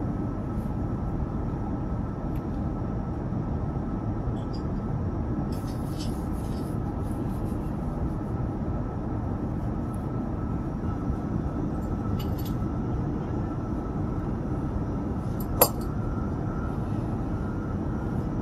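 Steady low rumble of an Airbus A350-900 airliner cabin in cruise, airflow and engine noise with a faint steady whine above it. A few light clicks are scattered through, the sharpest about fifteen seconds in.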